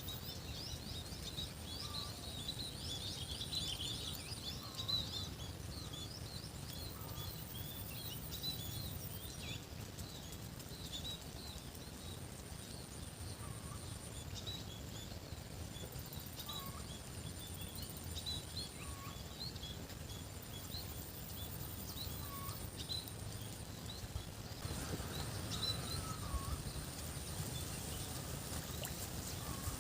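Outdoor ambience of small birds chirping: a dense run of short, high chirps for the first few seconds, then sparser ones. A lower short call repeats every couple of seconds, over a steady low rumble and a faint, steady high hiss.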